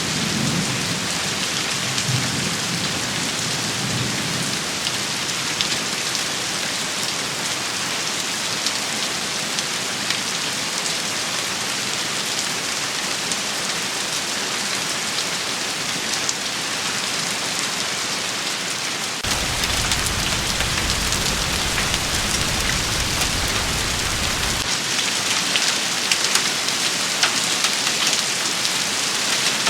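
Steady heavy rain shower falling, with low rumbling near the start and a low rumble that sets in suddenly about two-thirds of the way through and cuts off about six seconds later.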